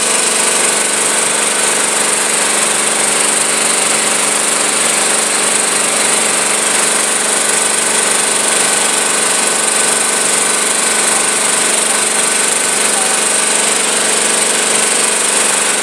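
Tractor engine running steadily at an even speed, heard close up with no change in pitch or level.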